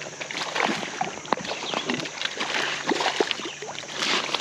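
Shallow creek water sloshing and gurgling, with many small irregular splashes.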